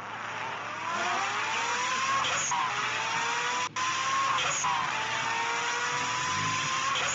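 Jeep engine revving in long rising surges that drop back about every two seconds, under load with the vehicle stuck in a mud hole, over a steady hiss.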